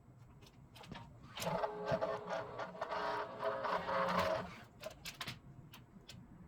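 A small electric motor whirring steadily for about three seconds, with scattered clicks before and after it.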